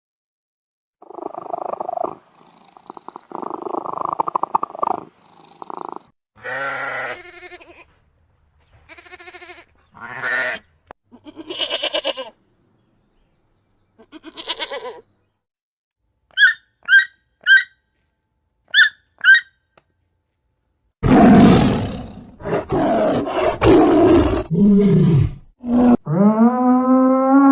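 A sequence of different animal calls separated by short silences: rough noisy calls, then pitched calls, a quick run of six short high chirps, and loud long roaring calls in the last few seconds.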